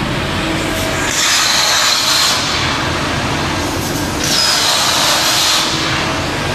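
CNC plasma cutter's torch, fed by a Hypertherm Powermax105, cutting sheet metal in two bursts of loud high hissing with a whine, each about a second and a half, over a steady machine hum.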